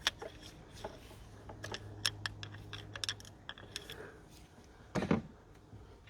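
Irregular light clicks and taps of small metal parts being handled, as a new diesel injector and its copper washer are fitted, with one duller knock about five seconds in.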